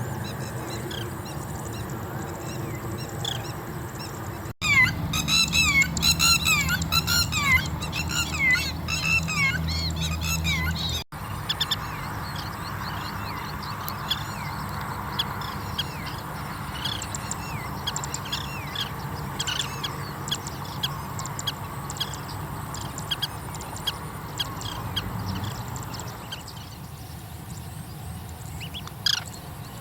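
Oriental pratincoles calling: a loud run of sharp, downward-slurred calls, several a second, from about five seconds in to about eleven seconds, then scattered shorter, fainter calls over a steady outdoor background.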